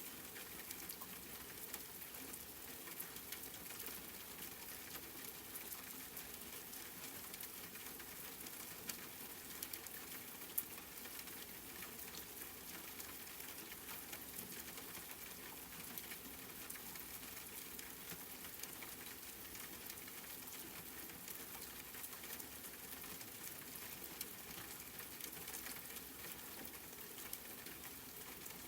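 Steady rain, a fine even patter of many small drops with occasional louder single drop ticks.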